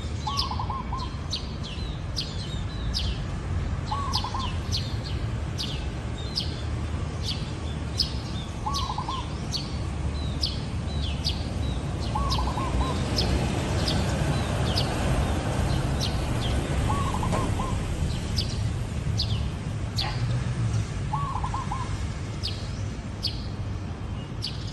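Zebra dove cooing: six short rolling coos, each about half a second, spaced about every four seconds. Other small birds chirp repeatedly higher up over a steady low background rumble.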